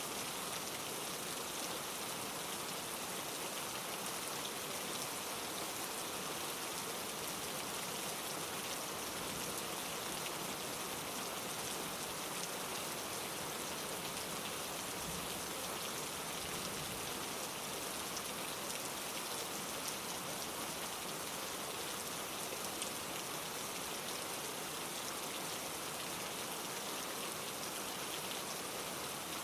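Steady rain falling, a dense even patter of drops with faint scattered individual drop ticks.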